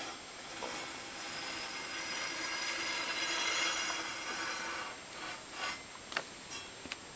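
Something sliding across the table saw in a long rubbing scrape with a faint squeal, lasting about four seconds, followed by a few light clicks near the end.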